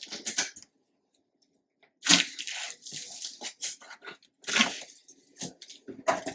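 Cardboard box and packaging being handled and opened: irregular bursts of rustling, scraping and tearing with sharp knocks. The loudest bursts come about two seconds in and again near the end.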